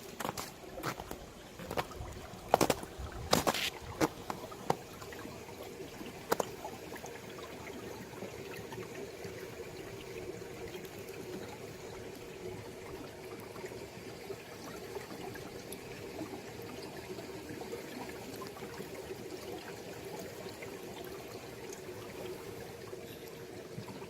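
Valley stream water trickling steadily over rocks. Several sharp clicks or knocks sound in the first six seconds.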